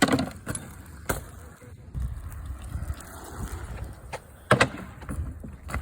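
Riders' wheels rolling and rattling over a dirt jump, with a low rumble and three sharp knocks: one at the start, one about a second in and the loudest about four and a half seconds in.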